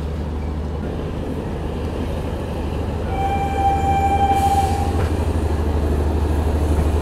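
A passenger train running into a station with a steady low rumble. About three seconds in, a locomotive horn sounds one steady note for about two seconds.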